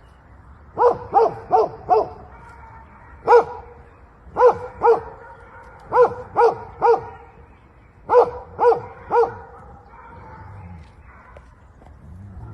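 A dog barking in short clusters of two to four sharp barks, about thirteen barks in all, with gaps of a second or so between clusters.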